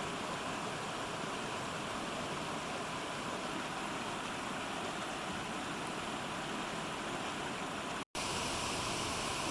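Mountain stream rushing steadily over rocks. The sound drops out for an instant about 8 seconds in, then carries on a little fuller.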